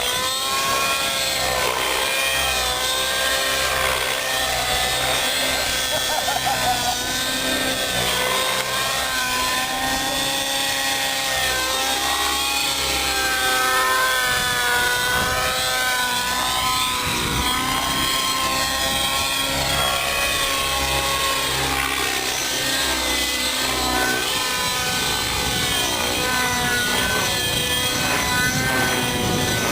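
Glow-fuel engine and rotors of a RAVE ENV nitro RC helicopter in flight, a steady high whine whose pitch wavers up and down as it manoeuvres.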